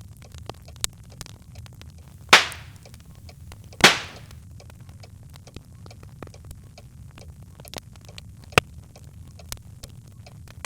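Birch logs burning in a fireplace: a low steady rumble of flames under scattered small crackles, with two loud pops about two and four seconds in and a sharp snap near nine seconds.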